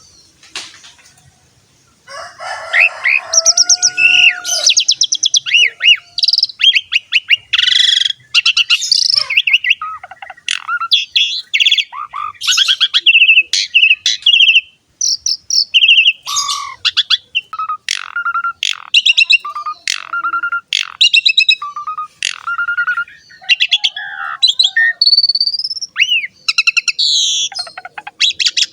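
Asian pied starling (jalak suren) in full, loud song: a varied stream of whistles, sliding notes, rapid trills and chattering calls that starts about two seconds in and keeps going without a break.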